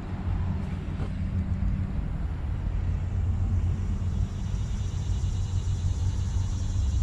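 Diesel tractor engine idling: a steady low rumble with a constant hum.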